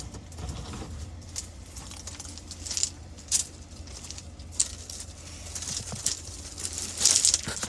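Scattered light knocks, clicks and rustles of someone shifting about in a cramped space, with a few sharper taps and a busier patch near the end, over a steady low hum.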